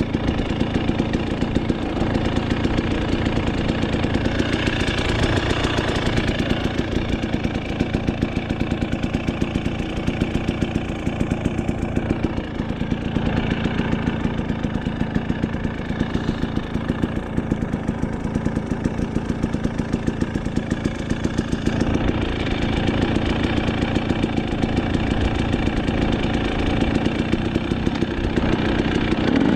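Dirt bike engine running steadily, with a fast, even stream of firing pulses.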